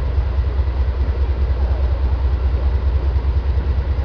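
Train rolling steadily across a stone arch bridge: a continuous low rumble with a fast flutter, over a steady hiss.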